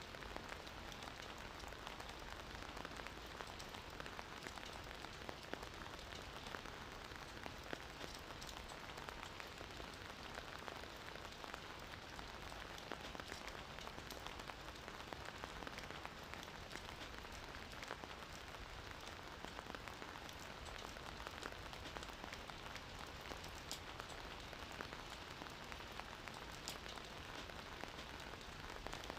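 Steady gentle rain falling, with faint ticks of individual drops scattered through it.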